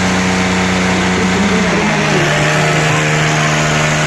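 Tractor diesel engine running steadily at high revs, its pitch dropping a little about two seconds in.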